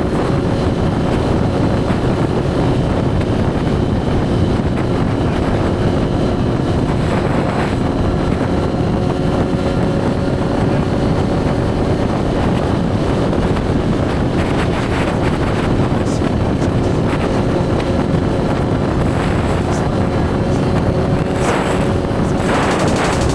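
Suzuki GSX-R1000's inline-four engine running at a steady cruise, its engine note holding nearly level, with wind rushing over the microphone.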